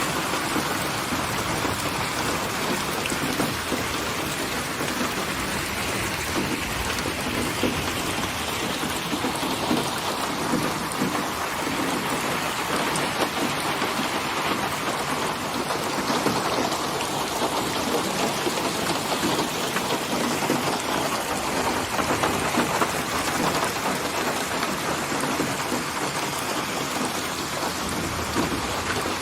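Steady rain falling, a dense even hiss of drops that swells and eases gently.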